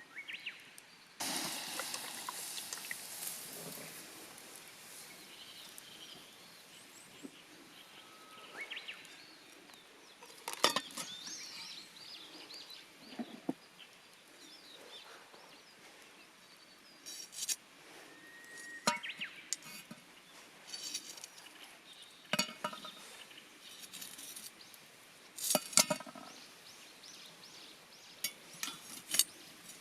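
Metal cookware and utensils clinking and tapping now and then, with a hiss that starts suddenly about a second in and fades away over a few seconds.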